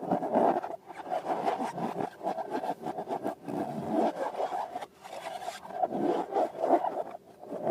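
Rubber balloons being rubbed and squeezed by hand, an uneven rubbing and scraping that comes in stretches with short breaks.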